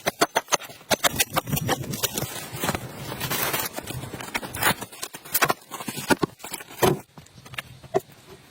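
Irregular clicks, knocks and scrapes in quick succession, thinning out after about five seconds.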